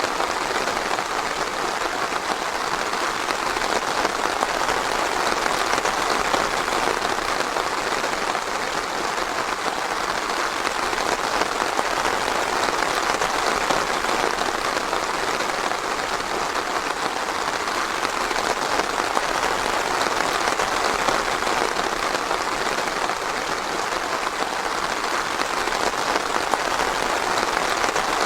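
Steady, dense rainfall, a continuous hiss of many drops pattering on leaves and ground.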